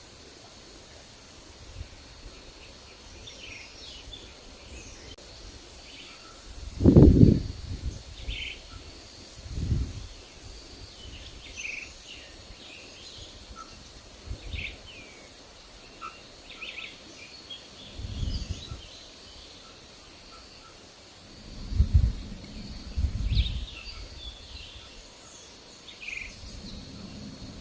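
Forest birds chirping in many short, scattered calls over a faint steady hiss, with several low gusts of wind buffeting the microphone, the strongest about seven seconds in and more near the end.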